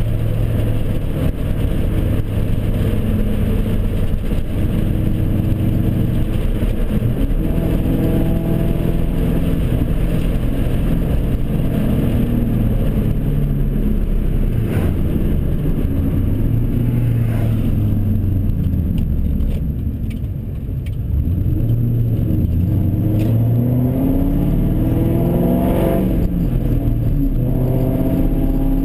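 2002 Mustang GT's 4.6-litre V8, fitted with long-tube headers, an off-road X-pipe and a straight-piped catback exhaust, heard from inside the cabin while driving. The engine note climbs in pitch as it pulls and drops back at each gearchange of the manual gearbox, with a brief lift off the throttle about two-thirds of the way through.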